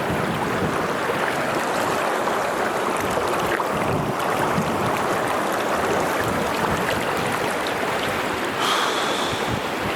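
Fast-flowing river water rushing steadily over stones.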